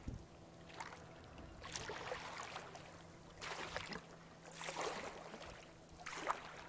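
Paddle strokes splashing and swishing through lake water at a small paddled boat, about five strokes roughly a second or so apart.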